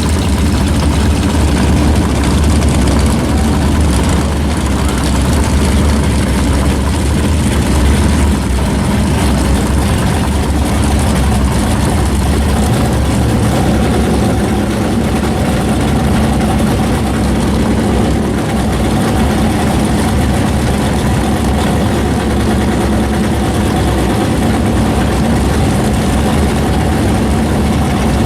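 Car engine running steadily at an even, low rumble, with no revving.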